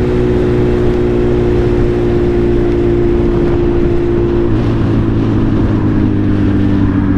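Suzuki Hayabusa's inline-four engine running steadily under way, its note dropping slightly about halfway through as the throttle eases, over a steady rush of wind and road noise.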